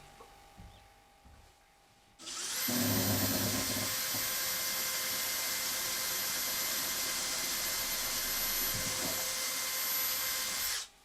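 An electric motor starts suddenly and runs at a steady whine for about eight seconds, then cuts off.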